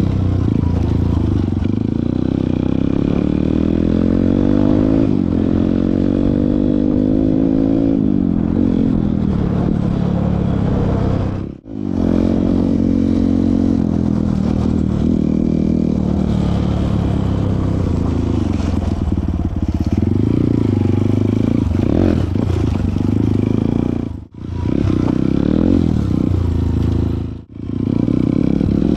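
Honda CRF single-cylinder four-stroke dirt bike engine under way off-road, its pitch climbing and dropping again and again as the rider works the throttle and shifts gears. The sound cuts out briefly three times.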